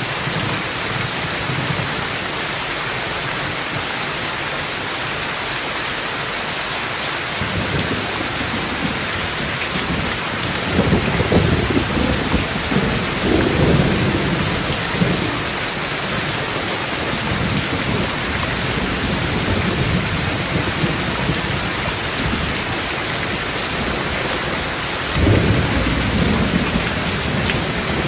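Steady heavy rain with rolling thunder: a long low rumble swells and fades from about 7 to 16 seconds in, and another low rumble starts suddenly about 25 seconds in.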